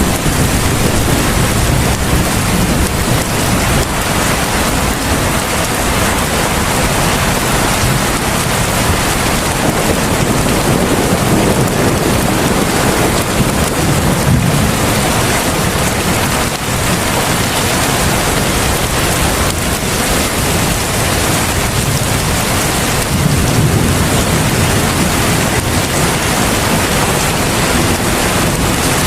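Heavy rain falling steadily, a dense even hiss, with a deeper rumble swelling up in the low end a couple of times.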